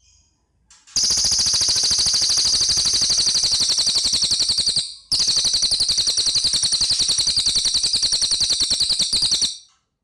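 Cililin bird singing two long, rapid rattling trills of about ten even pulses a second, high-pitched. There is a short break between the two trills.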